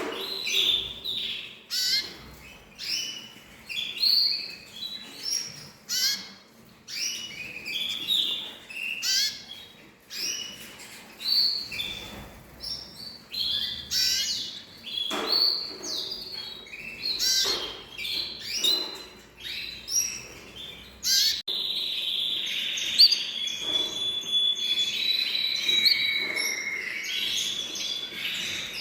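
Songbirds singing in a series of short chirping phrases with brief gaps between them. About three-quarters of the way in, the sound switches abruptly to one continuous, louder warbling song.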